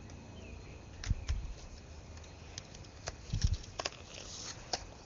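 Packet of collector cards being opened and the cards handled: scattered crinkles and sharp clicks, with low bumps about a second in and again about three and a half seconds in.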